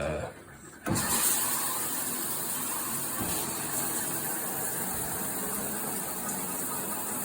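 Shower water coming on suddenly about a second in as the valve is opened, then spraying steadily from the shower heads.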